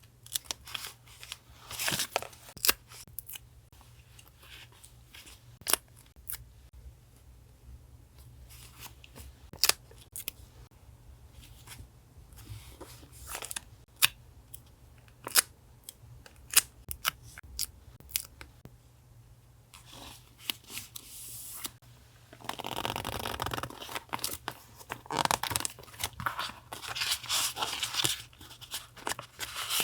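Scissors snipping paper in a run of short, sharp cuts, then, about two-thirds of the way in, a denser stretch of paper rustling and tearing.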